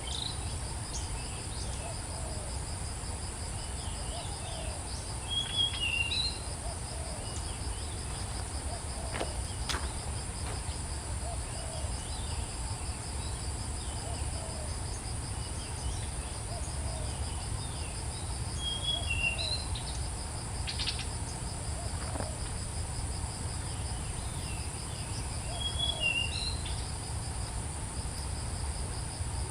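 Steady, high-pitched insect trilling, like crickets, with a bird's short chirping call coming back every several seconds over a low steady rumble.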